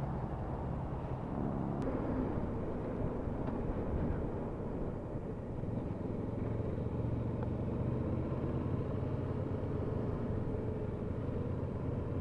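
Motorcycle engine running steadily while riding along, with a low hum and a constant wash of road and wind noise.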